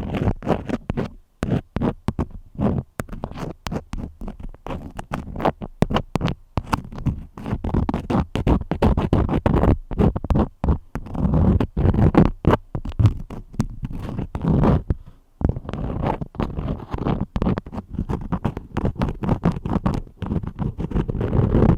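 Crayons scratching and rubbing in quick, irregular strokes very close to the microphone, with short pauses between runs of strokes.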